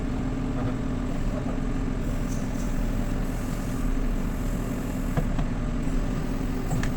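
JCB 3CX backhoe loader's diesel engine running steadily under work, with a few faint knocks near the end.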